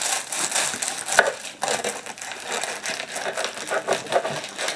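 Close-up crunching and chewing of a bite of shawarma whose lavash is toasted so crisp that it crumbles: a dense run of small crackles, with one sharper crack about a second in.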